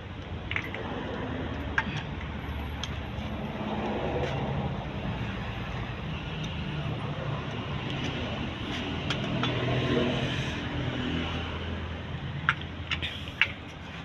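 Car engine running steadily, its low hum rising and falling slightly, with a few sharp clicks.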